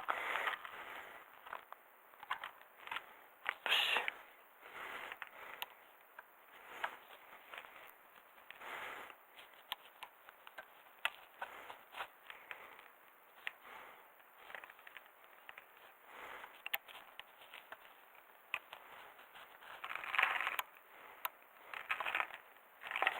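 Mountain bike rolling over a gravel road: irregular crunching bursts from the tyres and sharp rattling clicks from the bike.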